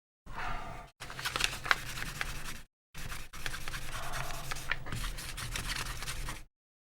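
Hand wet-sanding of a plastic AirPods Pro case with 3000-grit sandpaper: a scratchy rubbing with fine ticks, in stretches that cut off abruptly into silence.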